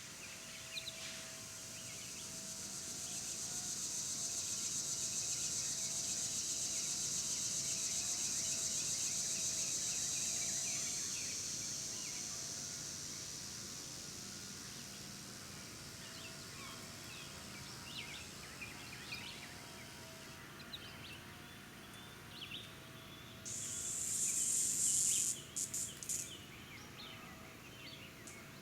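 Outdoor ambience: a high insect drone swells up over a few seconds and fades away, with scattered short bird chirps throughout. Near the end comes a brief, louder burst of high hiss broken by a few sharp clicks.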